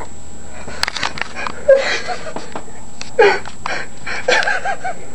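A person wheezing and gasping, with several short, breathy voiced outbursts, some with a wavering pitch.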